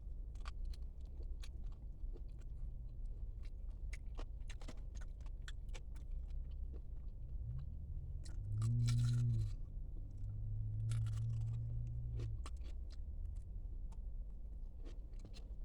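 Close-up chewing and crunching of fried chicken wings, with scattered wet mouth clicks. Twice a low, steady hum rises for a second or two, about eight and eleven seconds in.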